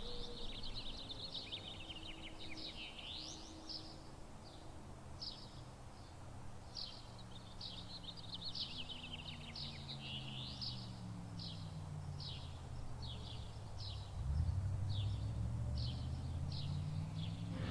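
Birds chirping and singing, with a faint low engine hum that rises and falls in pitch and grows louder about fourteen seconds in.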